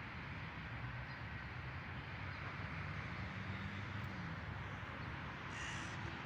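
Steady outdoor city ambience with a low traffic hum, and a single short bird call near the end.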